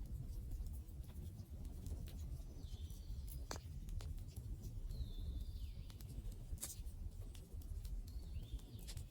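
Wood campfire crackling, with sharp pops now and then over a low steady rumble of the burning fire. A bird gives a short falling call three times, a few seconds apart.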